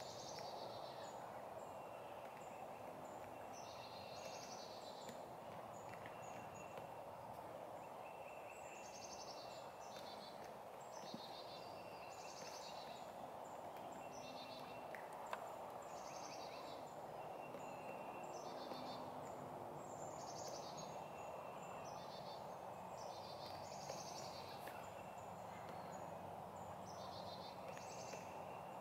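Woodland dawn ambience: a songbird sings the same short high phrase over and over, every second or two, over a steady low hiss, while a wild turkey gobbles.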